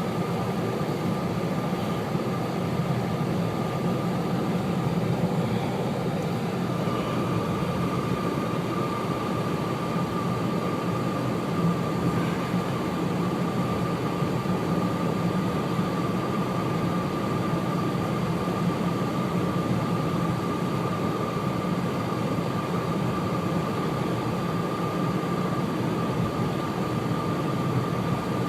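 Steady road and engine noise heard inside a car driving on a snow-covered highway, with a thin steady whine that grows a little stronger about a quarter of the way in.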